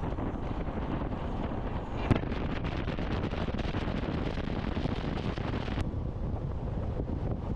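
Wind buffeting the microphone as a steady rumbling noise, with one sharp knock about two seconds in.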